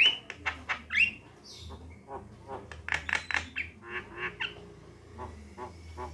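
Javan myna calling: a rapid series of harsh, chattering notes broken by short rising whistles, with a denser burst of notes about three seconds in.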